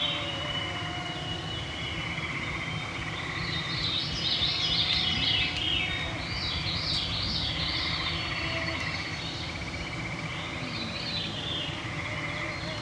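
Evening woodland chorus: several birds sing phrases of quick high notes, loudest about a third of the way in, over a continuous trill and the steady whine of mosquitoes.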